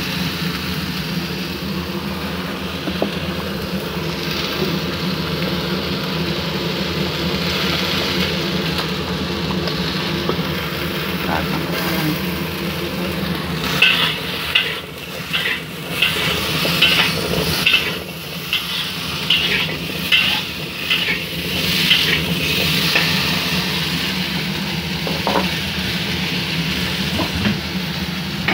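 Cubed potatoes frying in hot oil in a wok, a steady sizzle. From about halfway through, a metal spatula scrapes and clinks against the wok in a quick run of strokes as the potatoes are stirred, over a steady low hum.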